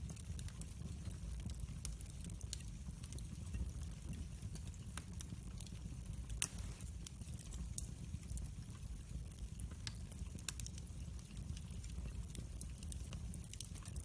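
Wood fire burning, with a steady low rumble and scattered crackles throughout, and one sharper pop about six seconds in.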